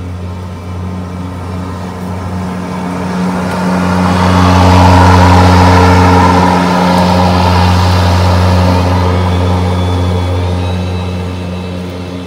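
EGO 56-volt battery-powered self-propelled lawn mower with the Select Cut multi-blade system, running while mowing grass into its bag. A steady low hum comes from the motor and blades, and it grows louder with a rushing hiss from about four to nine seconds in, then eases off.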